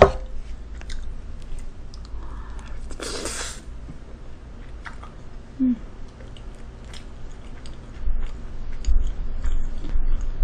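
Close-miked chewing of a mouthful of jjajang rice, with small wet mouth clicks. A short hiss comes about three seconds in, and a brief low hum from the throat near six seconds.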